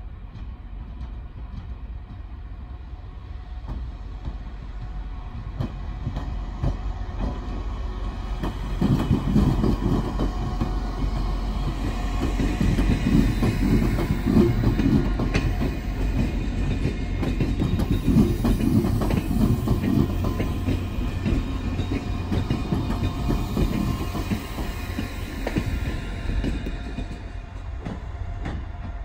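Pesa 730ML diesel multiple unit passing close by, its engine and wheels rumbling with a few sharp clicks from the rails. The sound swells about eight seconds in, stays loud through the middle and eases off near the end as it draws away.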